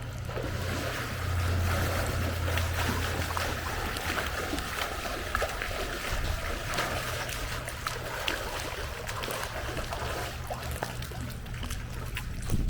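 Pool water splashing and sloshing as someone swims a lap, with a low steady rumble underneath.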